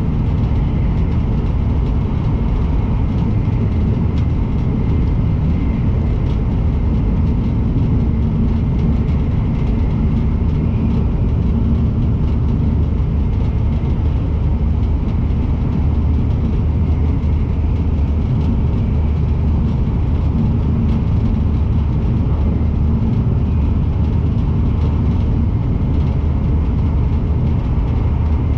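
Joetsu Shinkansen train running at speed, heard from inside the passenger cabin: a steady low rumble that does not change.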